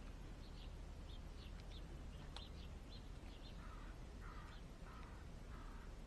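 Garden birds calling: quick, high chirps through the first half, then four lower calls about half a second apart, over a steady low rumble.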